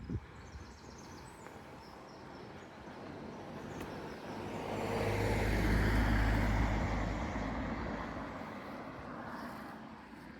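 A road vehicle drives past, its engine hum and tyre noise growing to a peak about six seconds in and then fading away.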